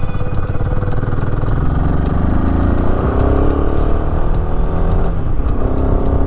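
Royal Enfield Himalayan 450's single-cylinder engine pulling up a steep hill, its revs rising steadily, then dropping about five seconds in as it changes gear and climbing again.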